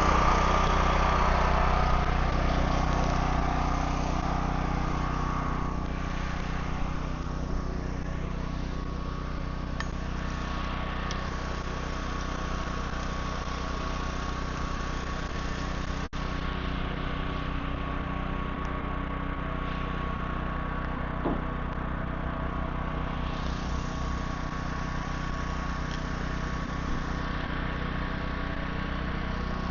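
An engine idling steadily, a little louder over the first few seconds and then even, with a brief dropout about halfway through.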